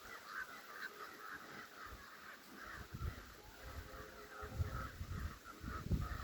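Birds calling, a dense run of short calls several a second, with occasional low thumps.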